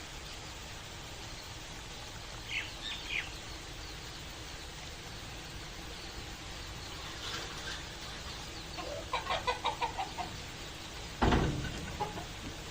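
Chickens clucking: two short calls, then a quick run of about eight clucks near the end, over a steady hiss of rain. A loud thump comes just before the end.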